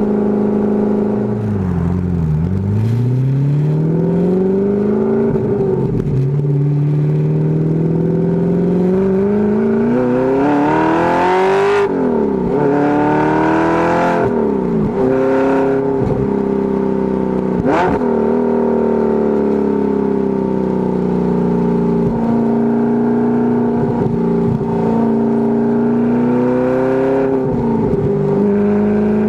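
Audi R8 V8 with a Fast Intentions dual exhaust under way in a manual car. The engine note dips and climbs at first, then rises steadily for about ten seconds as it pulls through a gear. It drops sharply at a shift, dips briefly a few more times, and settles into a steady cruise, with a rise and fall near the end.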